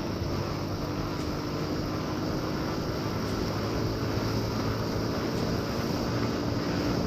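Motorcycle engine running at a steady pace while riding, under an even rush of road and wind noise.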